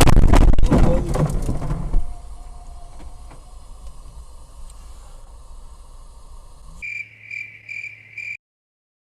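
Car collision heard from inside the car: loud crunching and banging of impact for about two seconds, then quieter running engine and road noise. About seven seconds in, four short high electronic beeps sound, about two and a half a second, before the sound cuts off.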